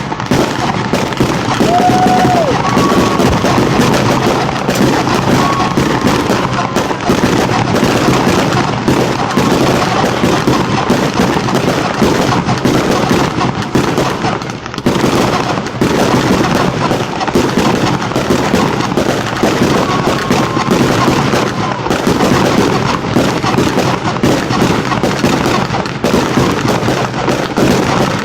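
A dense, continuous barrage of fireworks going off in rapid, overlapping bangs and crackles, with a brief lull about halfway through.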